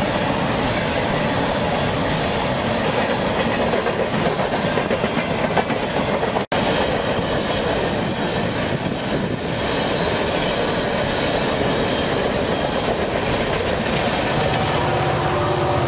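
Loaded coal train rolling past at close range: a steady rumble and clatter of steel wheels on the rails, broken by a brief dropout about six seconds in. Near the end a diesel locomotive's engine drone comes in under the wheel noise.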